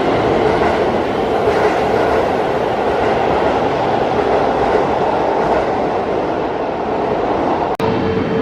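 Keihan electric train running through an underground station: a loud, steady rumble of wheels and motors. It cuts off abruptly near the end, and music begins.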